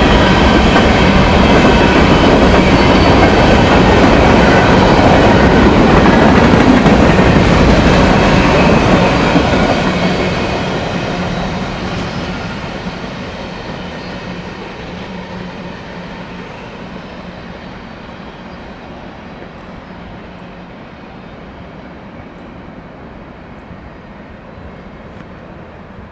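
A train passing close by on the rails, loud and steady, then fading gradually as it moves away from about ten seconds in.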